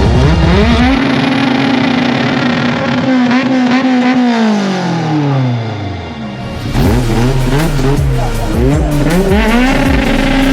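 Race car engines at a drag strip revving and accelerating under electronic dance music. One engine note climbs and holds for a few seconds, then falls away. Several shorter rev rises and drops follow, with a deep bass beat coming back in partway through.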